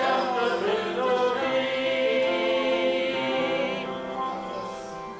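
Church music: voices singing a closing hymn in sustained notes with vibrato, easing off and fading near the end.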